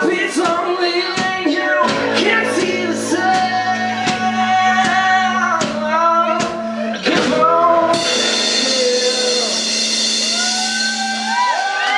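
A live rock band plays the end of a song, with electric guitar, a drum kit and singing. About eight seconds in the playing stops on a held note under a ringing wash. Near the end, rising and falling yells start as the crowd begins to cheer.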